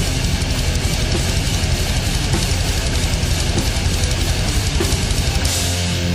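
Heavy metal band playing an instrumental passage: distorted electric guitars over fast, dense drumming. The drums drop out near the end, leaving a held, ringing chord.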